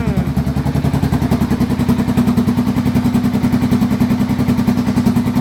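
2008 Suzuki Boulevard S40's single-cylinder engine idling steadily through an Emgo short reverse cone aftermarket muffler, loud, with an even run of exhaust pulses.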